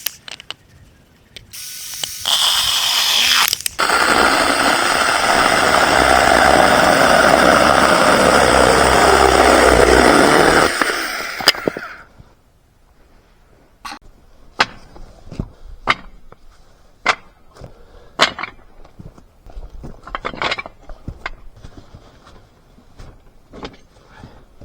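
Battery-powered portable chainsaw running: a brief burst, then about seven seconds of steady cutting before it winds down. Scattered knocks and clicks follow.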